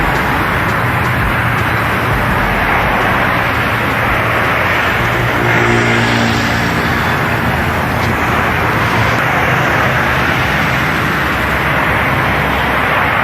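Steady road traffic noise, with a motor vehicle's engine sound rising briefly about six seconds in.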